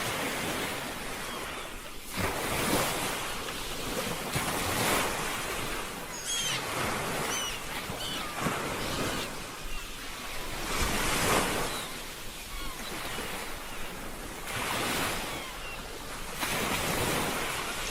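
Sea waves washing in, in swells every two to four seconds. A few faint high calls come over the surf about six to eight seconds in.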